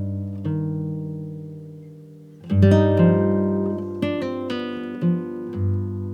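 Background music: acoustic guitar, plucked notes over a low bass, each struck sharply and left to ring down, with a fresh cluster of notes about two and a half seconds in.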